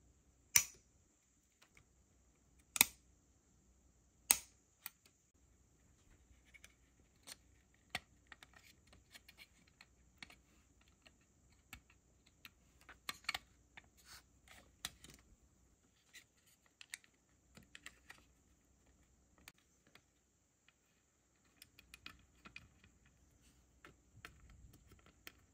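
Hard plastic model-kit parts clicking and tapping as they are handled with tweezers and fingers and pressed into place. Three sharp clicks come in the first few seconds, followed by a scattered run of lighter clicks.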